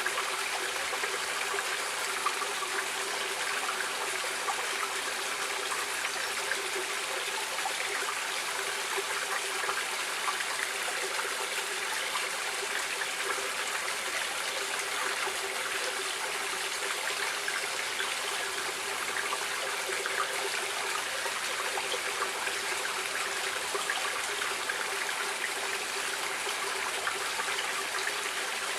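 Running water of a stream, flowing steadily with an even, unbroken rush and no separate splashes or pauses.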